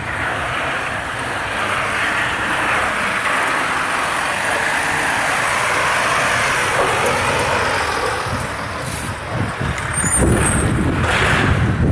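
A road vehicle passing, a broad hiss that swells and then fades over several seconds, followed near the end by wind buffeting the microphone.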